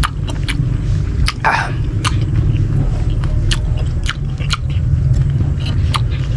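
A person chewing crisp raw green mango with shrimp paste, close to the microphone: irregular crunches, two or three a second, over a steady low rumble.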